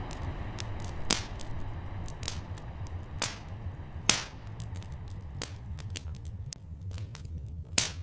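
Wood fire crackling, with irregular sharp pops, the loudest about four seconds in and near the end, over a steady low rumble.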